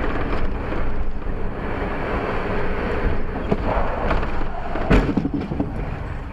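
Steady road and wind noise from a moving vehicle on a dashcam microphone, with one sharp knock about five seconds in.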